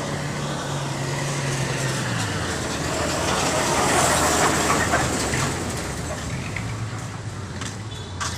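A motor vehicle's engine running with a steady low hum that drops in pitch about two seconds in, while road noise swells to a peak near four seconds and fades.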